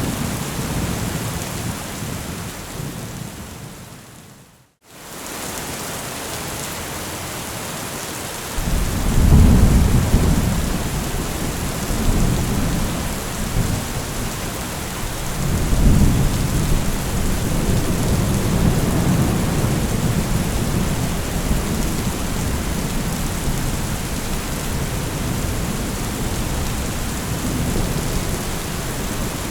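Steady heavy rain that fades away to a moment of silence about five seconds in, then comes back. Thunder rumbles from about nine seconds in, with a second loud roll around sixteen seconds, and keeps rolling low under the rain.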